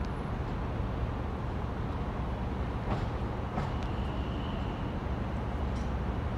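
South Western Railway Class 701 electric multiple unit pulling into the platform: a steady low rumble with a couple of clicks about three seconds in and a faint high whine about four seconds in.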